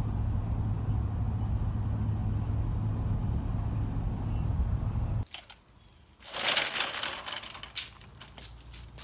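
Steady low rumble of a vehicle on the move, cutting off abruptly about five seconds in. After a short quiet, a loud burst of crackling and clicking noise follows.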